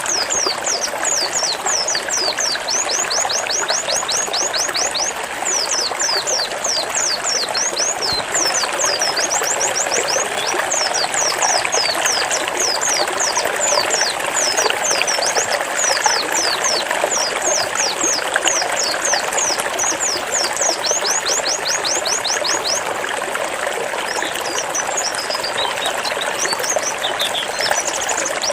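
White-eye (pleci) singing its 'zipper' song: long runs of rapid, high, steeply falling notes, thinning out in the later part and picking up again near the end. Under it runs a steady rush of trickling water.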